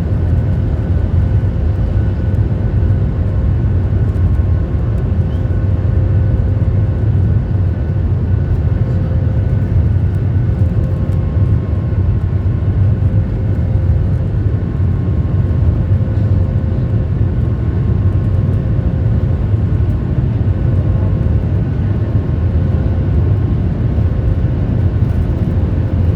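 Cabin noise aboard a Boeing 737 MAX 8: a steady, loud rumble of the CFM LEAP-1B engines and airflow, with a faint steady hum over it.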